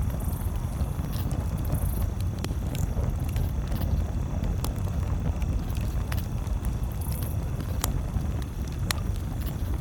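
Campfire crackling, with sharp wood pops every second or two over a steady low rumble.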